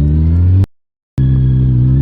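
Motorcycle engine running under acceleration, its pitch rising steadily. About two-thirds of a second in, the sound cuts out completely for half a second, then the engine comes back, still climbing in pitch.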